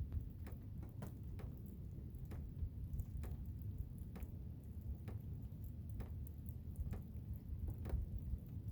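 Blizzard ambience: a steady low rumble of wind, with irregular sharp ticks or taps about twice a second, such as wind-driven ice or snow striking a surface.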